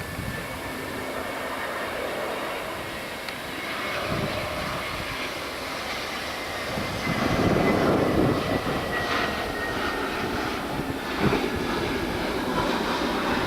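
Jet airliner engines running, a steady rush with a thin high whine that slowly falls in pitch, swelling louder about seven seconds in.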